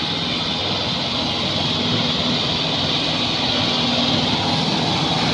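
Kubota tractor's diesel engine running steadily while hauling a heavy load of sugar cane.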